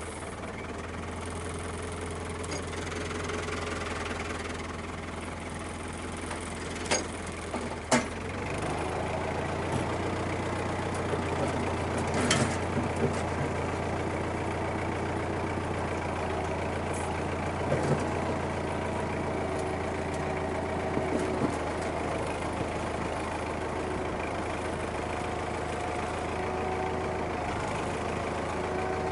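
Tractor diesel engine running steadily, with occasional metal clanks and knocks; two sharp ones come about seven and eight seconds in.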